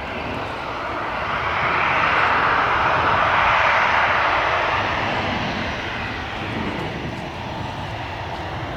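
Jet airliner's engines passing, the sound swelling to a peak about two to four seconds in and then slowly fading.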